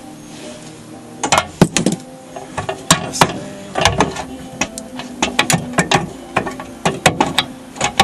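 Wrench work on the bolts of a VW engine's crossbar mount: sharp metal clicks and clanks in irregular bursts, starting about a second in.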